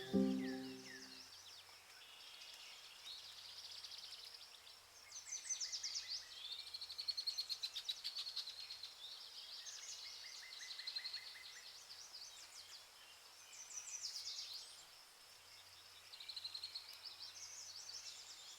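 Birds chirping and trilling in a nature ambience, with bursts of high, rapid trills coming and going every couple of seconds. The tail of background music fades out in the first second.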